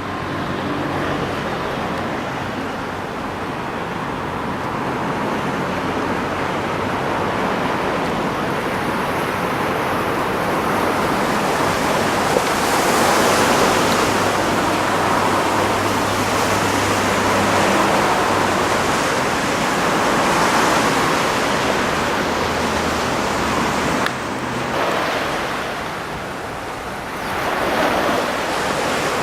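Steady rush of surf and wind at the shore, swelling and easing every few seconds and dropping back briefly near the end, with a faint low hum underneath.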